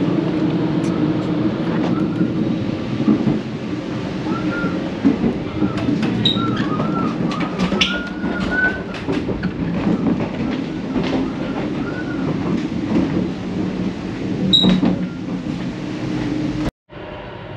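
Passenger train rolling along, heard from inside the carriage: a steady rumble with scattered clicks and knocks and faint wavering squeals. There is a short high beep about six seconds in and another near fifteen seconds. The rumble cuts off suddenly near the end, giving way to a quieter hum.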